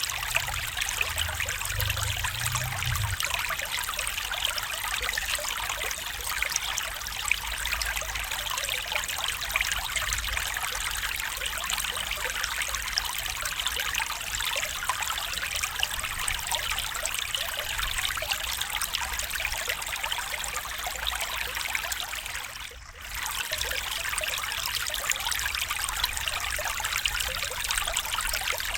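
A stream's flowing water trickling steadily, with a brief drop in level about four-fifths of the way through.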